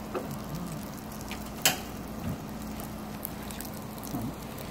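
Garlic-buttered bread slices sizzling gently in a frying pan, over a steady low hum, with one sharp click about a second and a half in.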